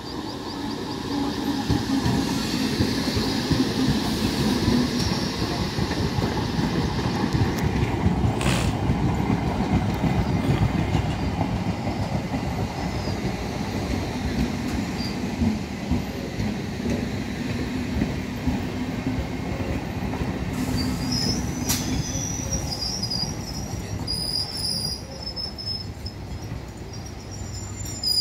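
Electric multiple-unit suburban local train running in along the platform, its wheels clattering over the rail joints under a steady hum, with a couple of sharp clanks. About twenty seconds in, a high wavering squeal starts as the train slows to a stop.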